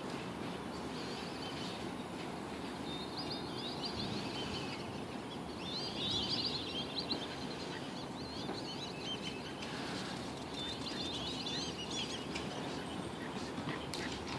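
Songbirds singing in three warbling phrases of quick high chirps, the loudest about six seconds in, over a steady rushing background noise.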